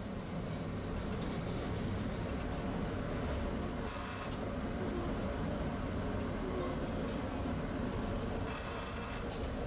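Tosaden streetcar running along its line, a steady low rumble of motors and wheels on rail. Three short high-pitched bursts cut in: about four seconds in, around seven seconds, and just before the end.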